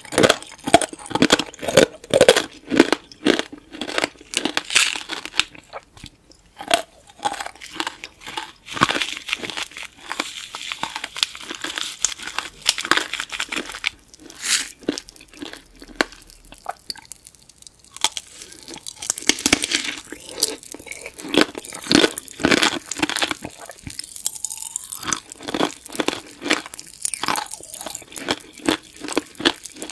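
Close-up crunching and chewing of tanghulu: bites crack the hard candied-sugar shell over fresh fruit, followed by chewing. There are many sharp crunches, with softer chewing stretches a quarter of the way in and again around the middle.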